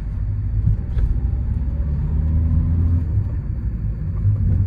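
Ford Transit Courier's 1.5 diesel engine and road rumble, heard from inside the cabin while driving, with the engine note changing about three seconds in.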